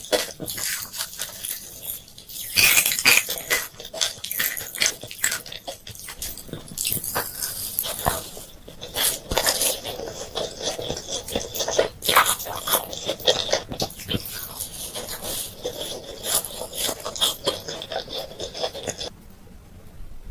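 Close-miked eating sounds: candy being bitten, crunched and chewed, with quick sticky mouth clicks throughout, easing off near the end.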